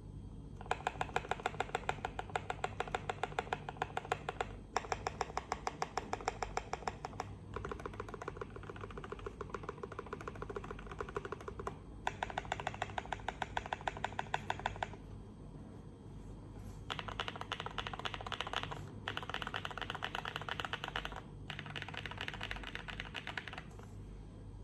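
KBD75 v3.1 mechanical keyboard being typed on fast, in runs of a few seconds of quick, even keystrokes with short pauses between them and a longer pause about two-thirds of the way through.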